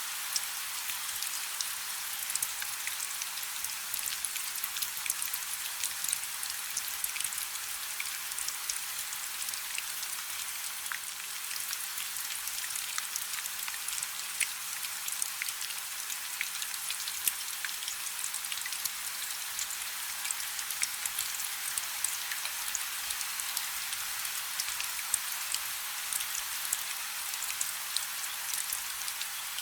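Rain falling on a river's surface: a steady, even hiss, dotted with many separate drop ticks.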